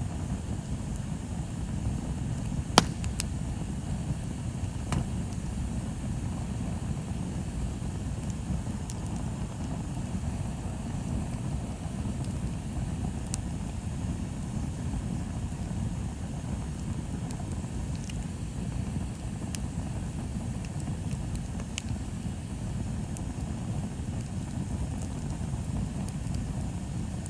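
Bonfire burning: a steady low rumble with scattered sharp crackles, one loud pop about three seconds in.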